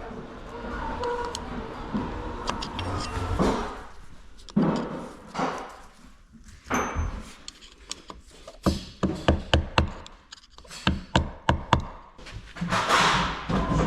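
Workshop knocks and clatter, then a quick run of about a dozen sharp blows, roughly three a second, like a hammer striking metal parts of a seized engine being taken apart.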